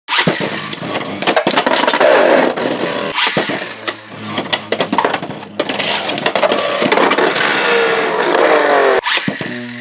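Beyblade X tops Fox Brush J9-70GR and Knight Mail 7-60H launched into a plastic stadium and battling. Rapid clacking collisions run over the whir of the spinning tops, and their pitch falls away as they slow.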